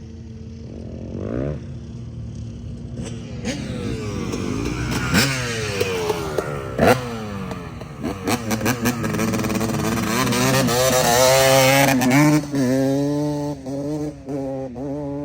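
Several small off-road engines revving, their pitches rising and falling and overlapping, with a couple of sharp pops. They build to the loudest revving, then give short throttle blips near the end.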